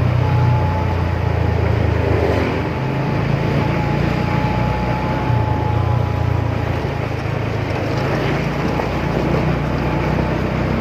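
Motorcycle running at a steady pace on the road, its low engine note under a haze of road noise, with a thin steady whine.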